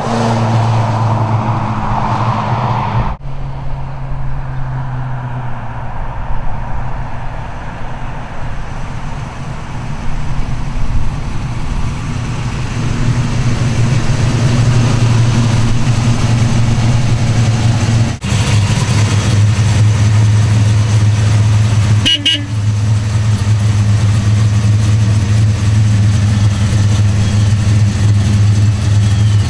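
1969 Plymouth Road Runner's 440 Six Pack V8 running with a steady, low rumble, its pitch barely changing, as the car idles and rolls slowly. The sound breaks off abruptly a few times where clips are cut together.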